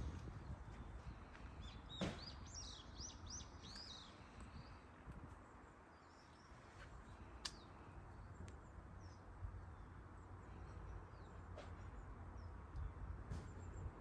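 Small birds chirping in quick runs of short, arched notes about two seconds in and again near the end, over a low steady outdoor rumble. A single sharp click about two seconds in is the loudest moment.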